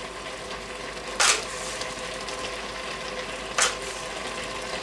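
Minced meat and vegetables sizzling steadily while they brown in an Instant Pot on its sauté setting. Two short, sharp clatters stand out, about a second in and again near the end.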